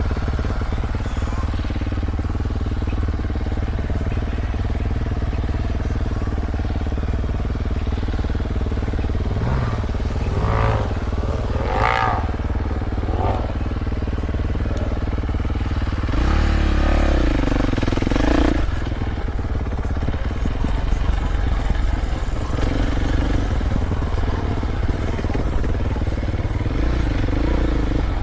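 Dirt bike engine running under a steady low rumble, with a few short revs rising and falling about ten to thirteen seconds in and a louder, longer rev about sixteen to eighteen seconds in.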